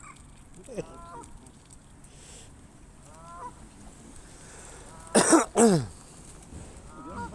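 Geese honking: a few short calls in the first half, then two loud honks close together a little past five seconds in, and another short call near the end.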